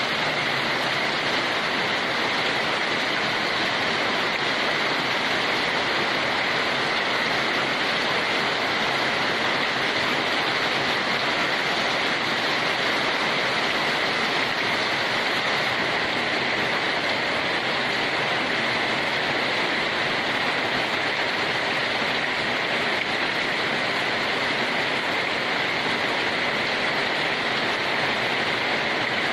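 Steady rain noise: an even, unbroken hiss with no distinct drops or thunder.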